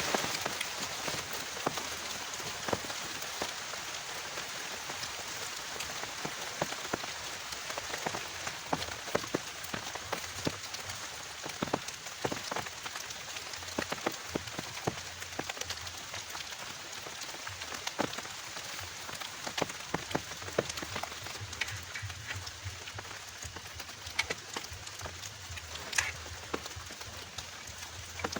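Heavy rain pouring steadily, with many separate sharp drop hits spattering on a surface.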